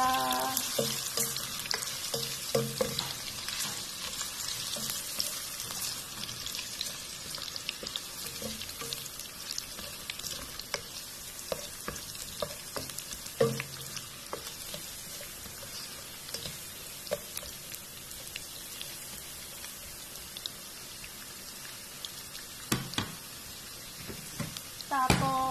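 Julienned ginger strips sizzling in hot cooking oil in a pan: a steady frying hiss with scattered pops, and a few knocks of a utensil against the pan.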